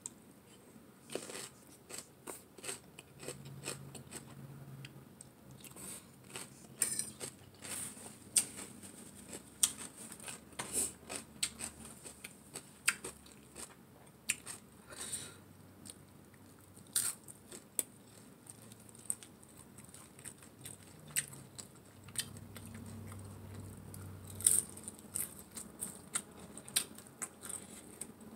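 A person eating close to the microphone: chewing and crunching shredded carrot salad and fried shrimp. Many short, sharp crunches and mouth sounds come one after another.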